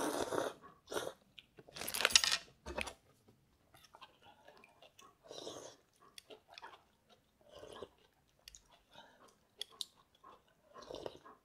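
A person eating hot seafood ramen: noisy slurps of noodles and chewing, with short huffing breaths out against the heat, the loudest slurp about two seconds in.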